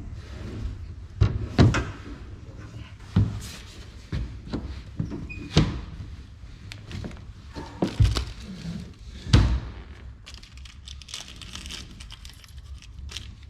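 Irregular knocks and thunks of hands-on work, about six sharp ones spread over several seconds, over a steady low hum.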